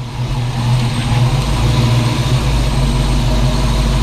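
1965 Ford Mustang's engine running: a steady low hum that grows louder about a second in and then holds.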